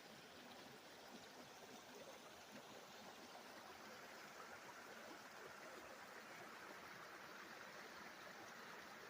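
Faint, steady rushing of a stream's running water.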